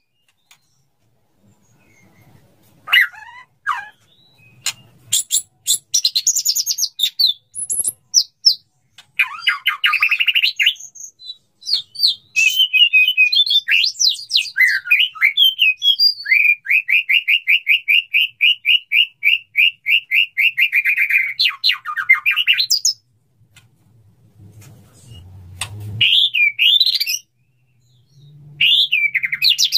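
Male white-rumped shama singing to a female in courtship: loud, varied whistled phrases and chattering notes with short pauses, and past the middle a steady run of quickly repeated notes lasting about five seconds.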